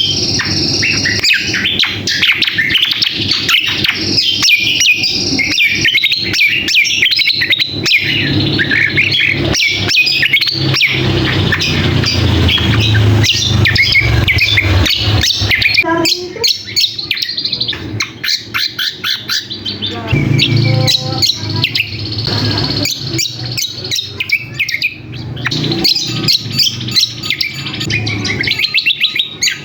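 Kecial kombok (cucak kombo) songbird giving a busy, continuous chattering song of rapid chirps and trills, the noisy calling played as lure audio to draw males and prompt other birds to sing. The song is densest through the first half and breaks into more separate notes after the middle.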